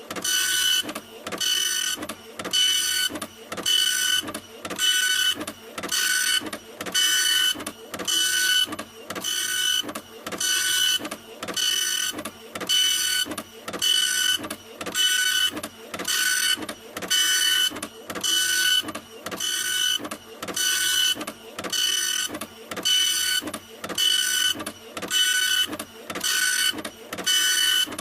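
Printer running continuously, its print head motor whining through one pass after another, about one pass a second with a brief dip between them.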